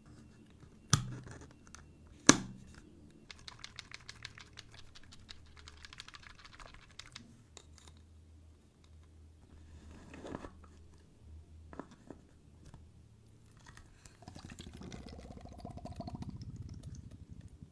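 Close-up handling of a plastic pretend-play toy: two sharp taps early, then a run of fast light clicks, and near the end a longer rustling, rattling stretch.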